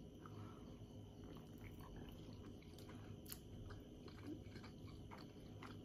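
Quiet chewing and small mouth sounds while eating a steamed manti dumpling, with faint scattered clicks.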